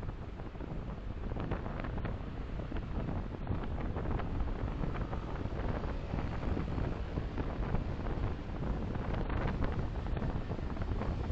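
Steady low rumble of a car driving, with road and tyre noise and engine noise as picked up by a dashcam, and faint brief ticks scattered through it.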